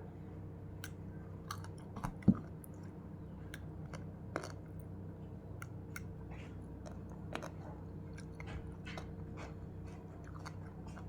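Close-up mouth sounds of someone chewing raw vegetables (cabbage leaves and pea eggplants), a run of small crisp crunching clicks with a sharper crunch about two seconds in. A steady low hum runs underneath.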